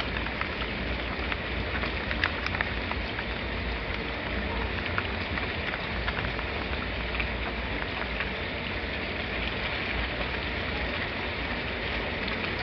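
Steady rain falling on a surface, with scattered individual drops ticking and a low rumble underneath.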